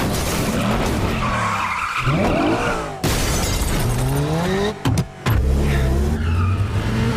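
Car engines revving hard, their pitch sweeping up several times, with tyres squealing in the first half. About two thirds of the way through the sound drops out abruptly for a moment, then returns as a deep steady engine note.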